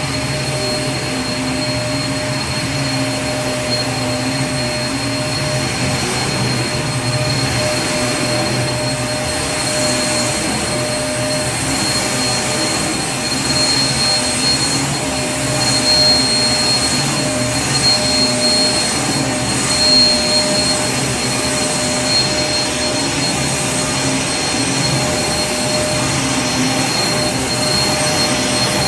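Vacuum cleaner running steadily: a constant rush of air with a steady motor whine, swelling slightly in loudness a few times in the middle.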